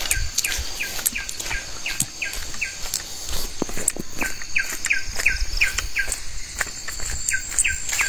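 Forest bird calling a long run of short falling notes, about three a second, over a steady high drone of insects, with footsteps on a dirt path.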